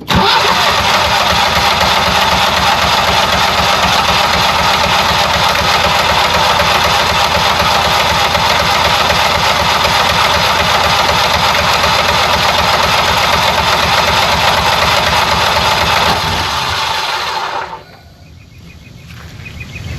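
Generac 20 kW home standby generator's V-twin engine being cranked by its starter for about sixteen seconds without catching, then stopping. It fails to start because fuel has not reached the freshly replaced mixer assembly after the line sat empty.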